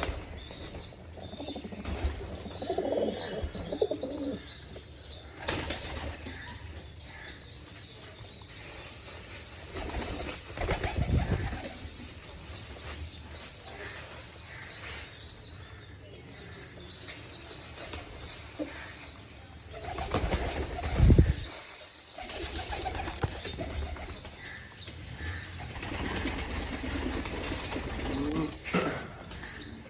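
A flock of domestic pigeons cooing, with a steady twittering of calls and a few louder bursts of wing flapping, the loudest about two-thirds of the way through.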